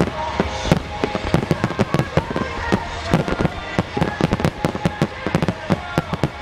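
A rapid, continuous barrage of fireworks: aerial shells and ground-fired fan barrages bursting, many bangs a second. Music plays underneath.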